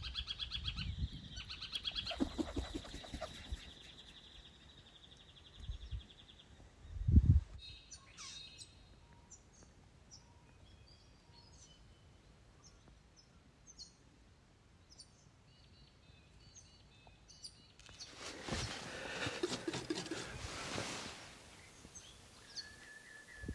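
Wild birds calling: a rapid trilling call for the first few seconds, then scattered short chirps. A single low thump comes about seven seconds in, and a few seconds of rustling noise come near the end.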